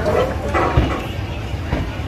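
Passenger train coach rolling slowly along a platform: a low rumble with a couple of short knocks, and indistinct voices in the background.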